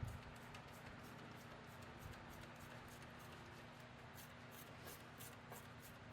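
Near silence: faint garage room tone with a low steady hum and scattered light clicks, with a small knock at the very start.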